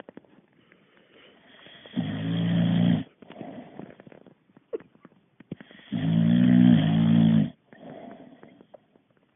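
Boxer dog snoring in its sleep: two loud snores, one about two seconds in and a longer one about six seconds in, with quieter breathing between them.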